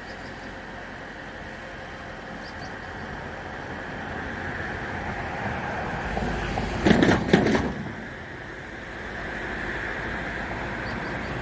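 A vehicle going by close: the noise builds over a few seconds, peaks sharply about seven seconds in, then falls away, over a steady background hum.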